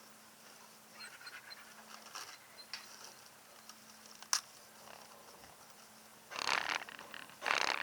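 A dog panting, loudest in two short bursts near the end, with a single sharp click about halfway.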